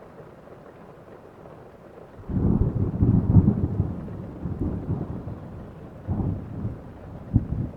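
Steady rain in a heavy thunderstorm. About two seconds in, thunder breaks out suddenly as a deep rolling rumble, then fades, with two more swells of rumble near the end.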